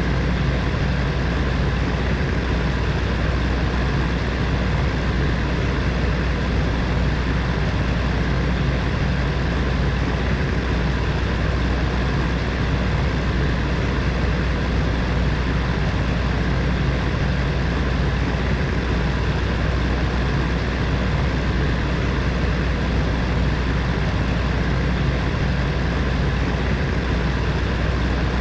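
Space heater fan running steadily: an even whooshing airflow over a low motor hum.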